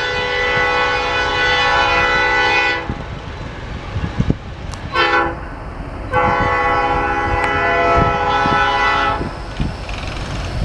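Freight locomotive's multi-chime air horn sounding a long blast, a short blast, then another long blast, the closing part of the long-long-short-long grade-crossing signal, over the low rumble of the passing train.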